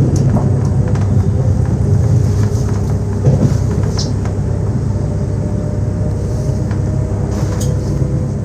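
Z2N double-deck electric train Z 20778 running: a steady, loud low rumble with a constant motor hum and scattered short clicks.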